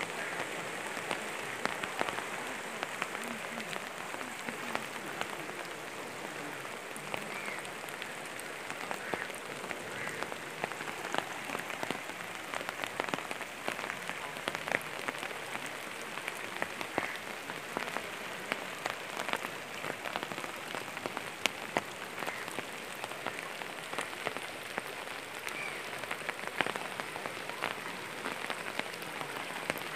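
Steady patter of rain: an even hiss with many sharp drop ticks.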